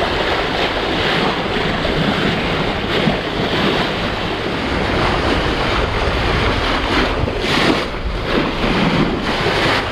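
Wind buffeting the microphone over the steady wash of waves and water along a sailboat's hull under way.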